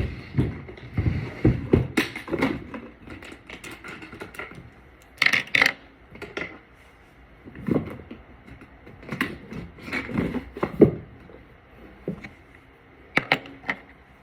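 Makeup containers and brushes handled on a hard surface: irregular clicks, taps and knocks as products and tools are picked up, opened and set down.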